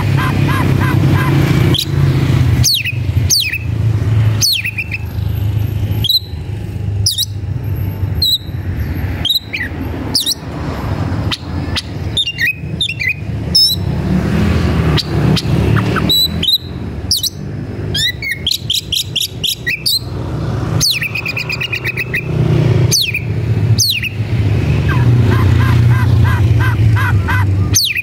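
Oriental magpie-robin (kacer) singing hard: a loud, varied run of sharp falling whistles and quick trains of repeated notes, the song of a bird worked up and challenging a rival. A steady low hum runs underneath.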